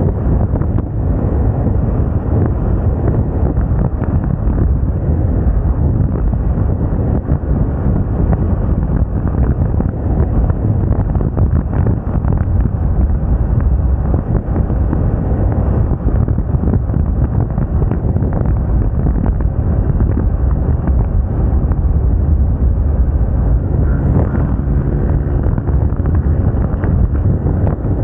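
Steady wind buffeting on the microphone while riding a Moda Moca 110 scooter, with the scooter's running and road noise underneath.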